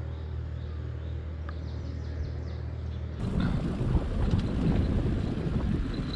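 A steady low hum with faint high chirps over it. About three seconds in it gives way abruptly to louder, rumbling wind buffeting the microphone.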